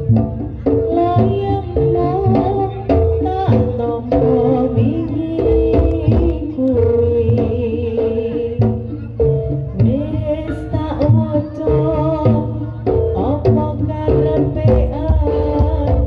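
Live jaranan (kuda lumping) ensemble music: hand drums beat a fast, dense rhythm under held pitched notes and a wavering melody line.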